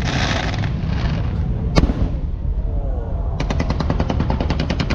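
Fireworks going off: a hissing burst at the start, one sharp bang just under two seconds in, then a rapid string of crackling pops, more than ten a second, from about halfway through, over a steady low rumble.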